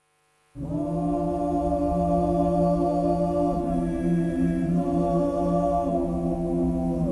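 Choral vocal music starts about half a second in: voices holding long sustained chords and gliding to new notes every couple of seconds, over a low hum.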